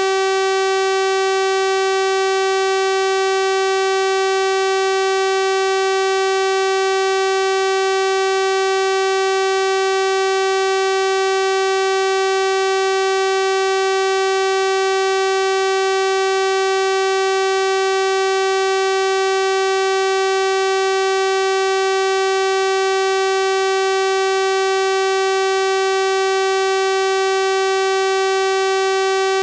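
Synthesized 384 Hz sawtooth-wave tone, a steady buzzy electronic hum rich in overtones that holds unchanged in pitch and level.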